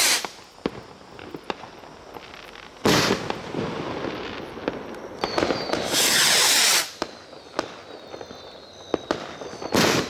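2.5-inch ball rocket fireworks firing: a rocket goes up with a hiss about 6 seconds in, and loud bangs of shells bursting come about 3 seconds in and again near the end, with scattered sharp crackles between.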